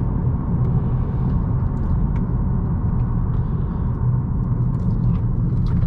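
2018 Honda Accord 1.5T's turbocharged four-cylinder and tyres making a steady low rumble while under way, with a few faint clicks.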